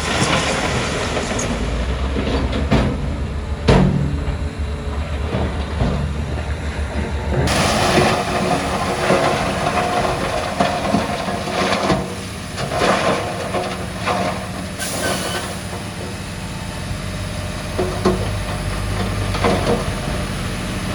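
Heavy earthmoving at work: a crawler bulldozer's diesel engine runs under a continuous run of irregular metallic clanks and knocks from its tracks and blade. About seven seconds in, the sound turns abruptly brighter and fuller.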